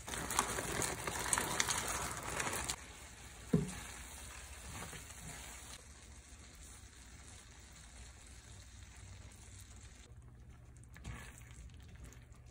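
Pot pie filling of chicken, onion and vegetables sizzling in a cast-iron skillet, loud with crackles for the first three seconds or so, then much softer. There is a single knock about three and a half seconds in.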